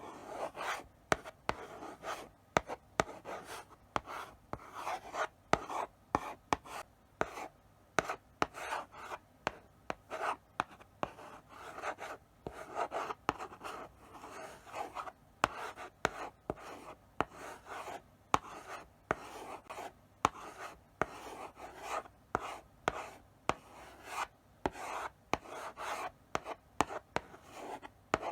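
Chalk writing slowly on a blackboard: short scratchy strokes one after another, broken by sharp taps as the chalk meets the board.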